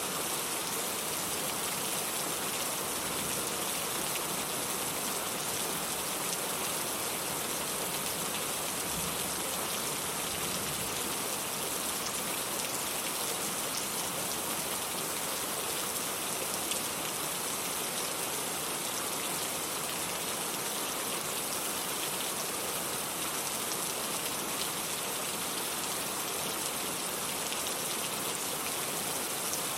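Steady rain falling, an even hiss of many drops with faint individual drop patter, unchanging in level.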